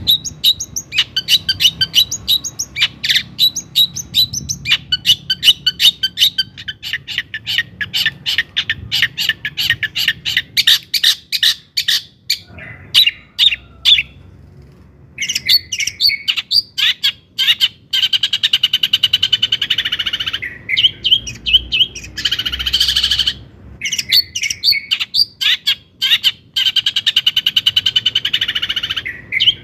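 Long-tailed shrike (cendet) singing: a fast run of sharp, chattering notes, several a second, that breaks off briefly about halfway through and resumes as denser, unbroken chattering phrases.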